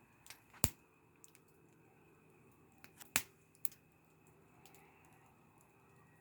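Wood fire crackling: irregular sharp pops and snaps of burning wood, the loudest about half a second in and about three seconds in, over a faint steady background.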